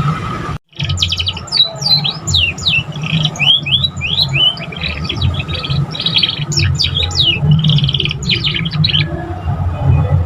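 Young canary singing in practice song: a fast, varied run of chirps, quick trills and falling whistles that stops about nine seconds in. A steady low hum lies underneath, and the sound cuts out briefly about half a second in.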